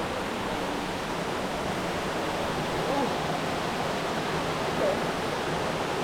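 Steady rushing of falling water from a waterfall, an even hiss that holds throughout, with two faint brief voice-like sounds about halfway through.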